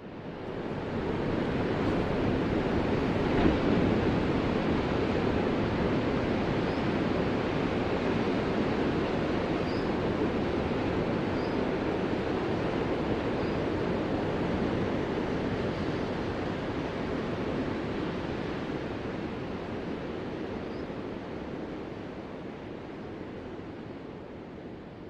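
Ocean surf: a steady wash of waves that comes in quickly and then slowly fades away over the last several seconds.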